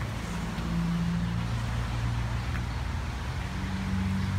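Low, steady hum of an idling motor vehicle engine, with outdoor background noise.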